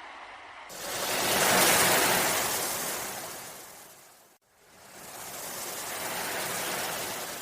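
Ocean waves washing in: two surges of rushing noise, each swelling and then fading away. The first comes in suddenly about a second in, and there is a brief dropout between the two.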